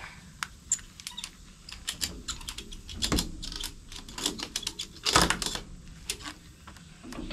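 Ratchet strap being worked and tightened: a run of irregular metallic clicks from the ratchet, with two louder clunks about three and five seconds in.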